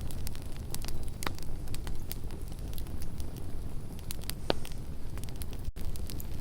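Wood campfire burning and crackling, with scattered sharp pops over a steady low rush of flame.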